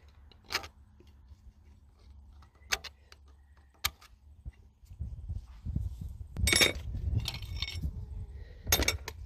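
Metal clicks and clinks from working on an old single-cylinder diesel engine's valve gear: a few sharp single clicks, then, about halfway through, several seconds of denser metal-on-metal rattling and scraping as the push rods are pulled out.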